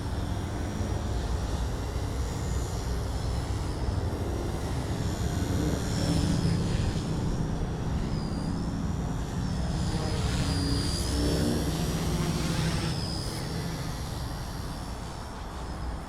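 XK K110s collective-pitch micro helicopter in flight: its motor and rotor give a steady high whine that wavers and dips in pitch as the load changes, most of all in the second half, over a constant low rumble.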